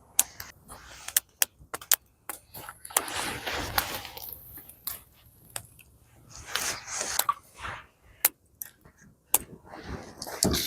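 Wood campfire crackling with irregular sharp pops, mixed with a few longer swishing noises.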